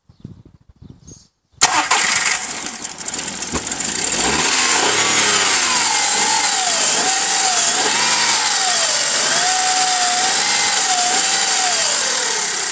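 Skoda Fabia 1.2 HTP three-cylinder petrol engine cranking briefly and starting about a second and a half in, then running at idle with a whining tone that wavers up and down every second or so and drops near the end. The engine has a fault that the owner cannot find: no error codes, with compression, injection pressure and sensors already checked.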